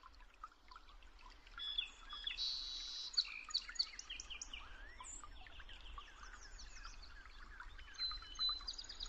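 Several birds chirping and whistling in overlapping short calls and quick downward sweeps, over a faint low background hum.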